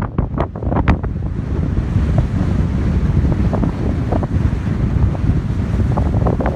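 Strong wind buffeting the microphone in a steady low rumble, with a few sharp crackles in the first second, over the rush of sea waves breaking on the shore.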